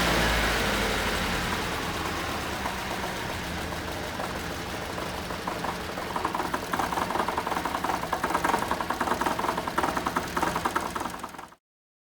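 Toyota TE27 Trueno's 2T-G twin-cam engine running. The level eases over the first few seconds, then a fast, rapid ticking rattle comes in about halfway and continues: the abnormal engine noise that appeared right after the car passed inspection. The sound cuts off abruptly near the end.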